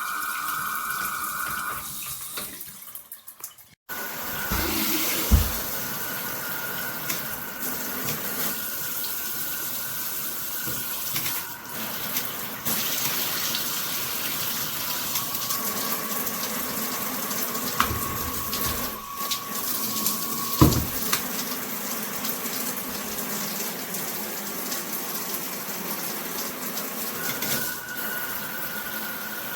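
Shower water spraying steadily from a shower head onto a tiled stall, a continuous hiss with a faint whistle in the flow. The spray drops away about three seconds in and starts again just after, and a couple of dull thumps come through.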